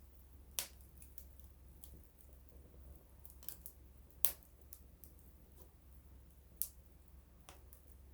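Small wood campfire crackling, with scattered sharp pops and snaps at irregular intervals. The loudest pop comes about four seconds in.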